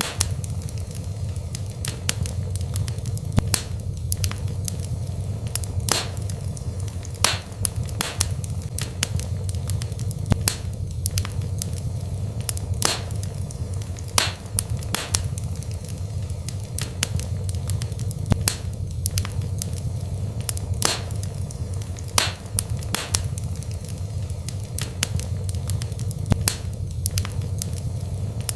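Wood fire burning in a fireplace: a steady low rumble of flames with irregular sharp crackles and pops, a few a second.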